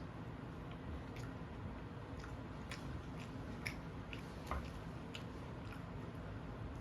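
A person chewing and eating fried rice with chilli paneer close to the microphone: soft wet chewing with irregular small mouth clicks.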